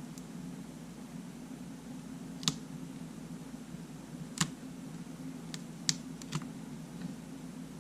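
A handful of small, sharp clicks and taps from tools and parts being handled on a disassembled camera, a few seconds apart and bunched near the end, over a steady low hum.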